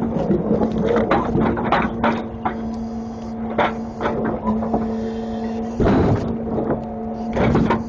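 Grapple truck running steadily with a constant hum, while knocks and clatter come through again and again, with louder bursts of clanking at the start, about six seconds in and again near the end.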